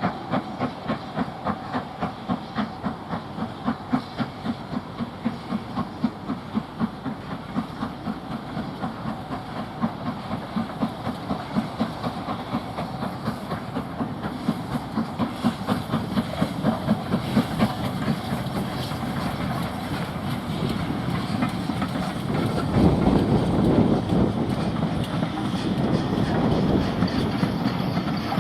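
Steam locomotive working hard, its exhaust beats quickening from about two to about three a second, then running together into a steady, louder rush about three quarters of the way through.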